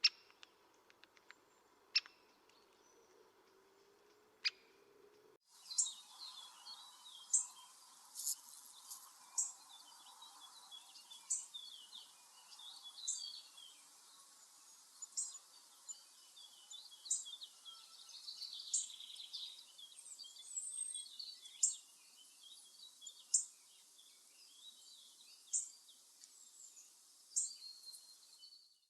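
Wild birds chirping and calling, with one short, sharp high call repeated about every one to two seconds over a steady high hiss. The birdsong begins abruptly about five seconds in, after a few faint clicks.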